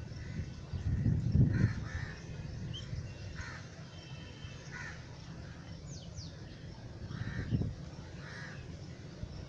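Birds calling in short, separate calls, about six of them, over a steady low background rumble, with two louder low rumbles, one about a second and a half in and one near the end.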